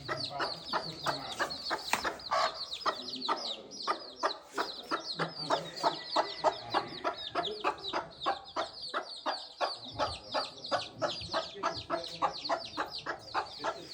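Many birds calling at once in rapid, overlapping short notes, several a second, without a break.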